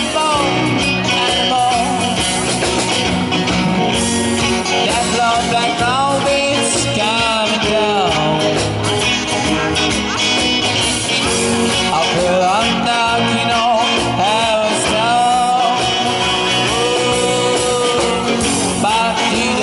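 Live rock band playing an instrumental passage: a lead guitar line with bent, sliding notes over bass and drums.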